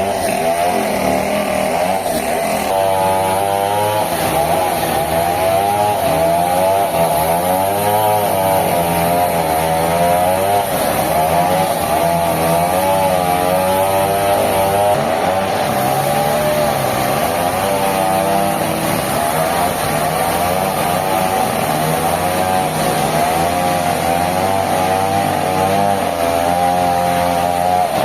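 Engine of a log-cutting saw running, its pitch wavering up and down over and over as the load changes.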